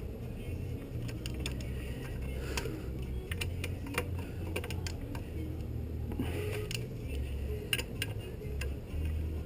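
Irregular small clicks and clinks of metal tools and parts being handled, over a low rumble.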